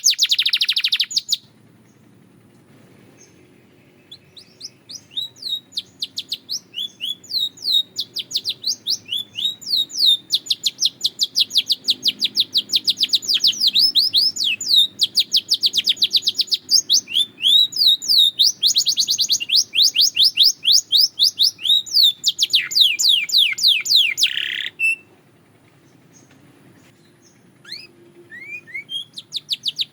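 Belgian canary singing long songs of fast trilled runs of repeated high notes. It breaks off after about a second and a half, sings again for some twenty seconds from about four seconds in, pauses, and starts again near the end. A faint low hum runs underneath.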